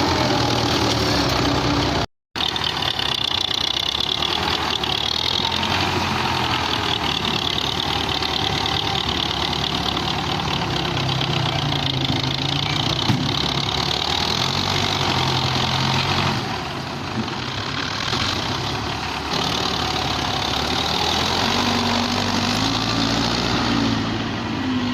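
Belarus tractor's diesel engine running continuously, its speed rising and falling a little, with a brief cut to silence about two seconds in.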